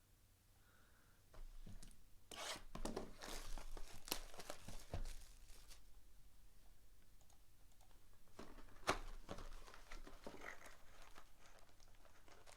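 Foil wrappers of 2018-19 Prizm basketball retail card packs being torn open and crinkled by hand, in two spells of crackling: one from about a second and a half in, the other about two-thirds of the way through.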